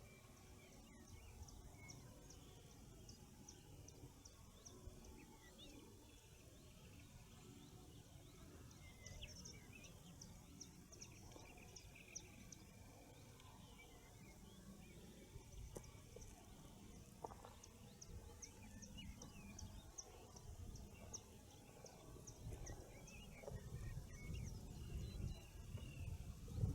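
Faint birdsong at the edge of a forest: a high, thin note repeated a few times a second in long runs, with other birds' scattered chirps and short phrases below it. A low rumble grows near the end.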